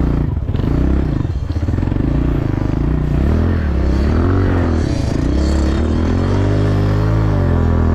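Small dirt bike engine revving as the bike is ridden, its pitch rising and falling several times through the second half.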